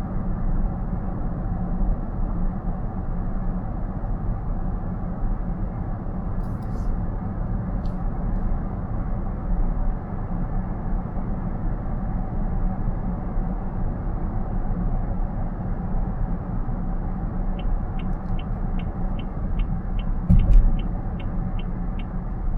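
Steady tyre and road rumble inside a car cabin at highway speed. Near the end, a run of even ticks, about two or three a second, like a turn-signal indicator, with one thump from a bump in the road partway through.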